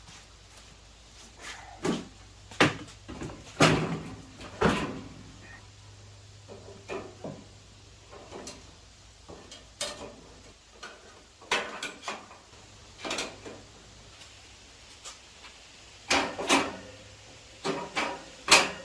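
Irregular knocks, clunks and rattles of metal parts being handled and set down, a dozen or so, loudest around four seconds in and near the end.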